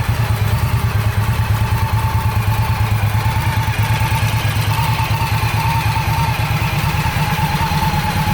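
Indian Scout motorcycle's V-twin engine idling steadily, with an even pulsing beat.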